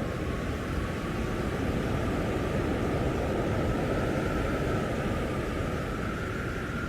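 Blizzard wind blowing steadily, a deep rumbling rush with a faint thin howl that slowly rises in pitch near the end.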